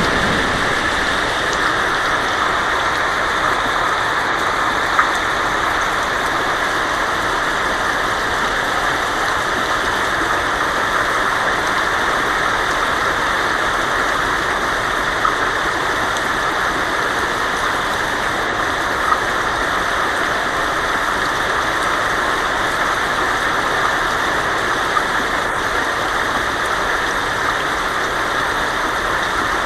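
Heavy rain drumming steadily on a tin roof, a dense even patter with a few sharper single drop ticks standing out now and then.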